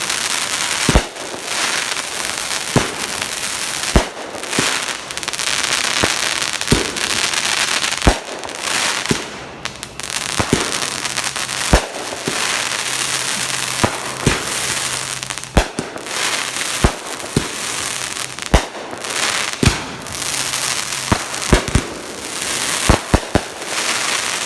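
Fireworks going off without a break: a steady crackling hiss with many sharp bangs and pops at irregular intervals, several a second at times.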